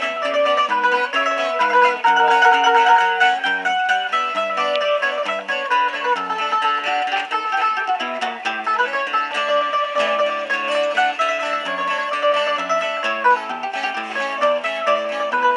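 Two plucked string instruments playing a folk tune together, a quick melody over lower bass notes and chords, without a break.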